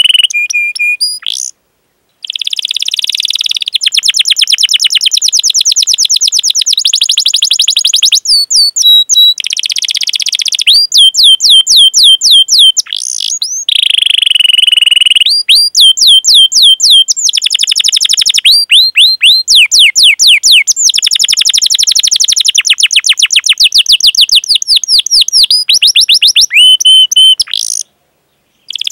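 Domestic canary singing a long song of rapid repeated notes and fast rolling trills, with runs of sharply rising 'cuit cuit' calls. The song breaks off briefly twice, about one and a half seconds in and near the end.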